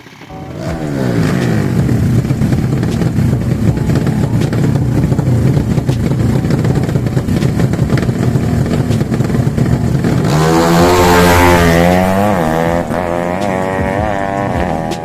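Drag-racing motorcycles accelerating hard at full throttle, engines held at high revs. About ten seconds in a louder engine note rises, then sweeps down and wavers as a bike passes close.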